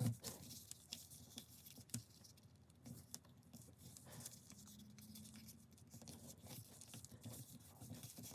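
Faint paper handling: sheets of paper being folded and creased by hand, with scattered light taps and rustles.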